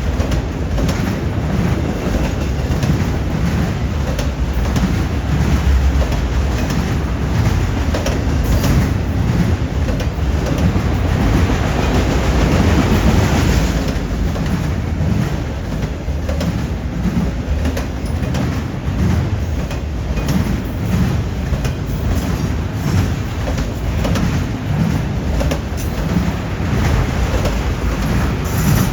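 Freight train cars rolling past at track side, their wheels clacking in a steady rhythm over rail joints and the junction switch, with a brief swell of rushing noise midway.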